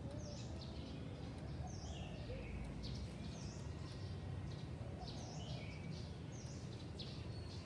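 Small birds chirping over and over in quick, sharp notes, over a steady low background rumble.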